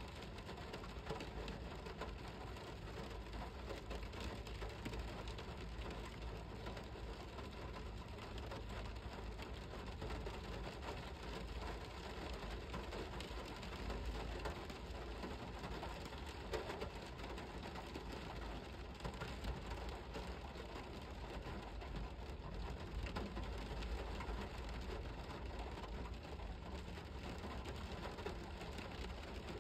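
Steady rain falling, an even hiss of countless drops with a low rumble underneath.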